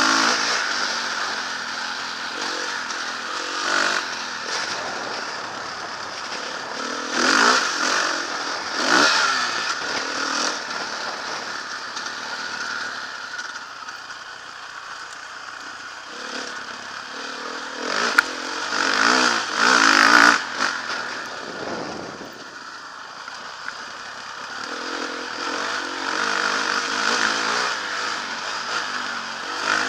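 Motocross bike engine running under load as it is ridden around a dirt track, the revs rising and falling, with two louder stretches of hard acceleration.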